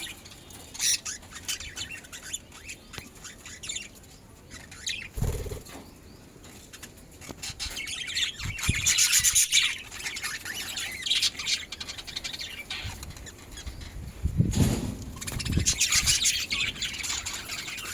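Budgerigars chirping in short bursts, with a few brief wing-flapping flurries.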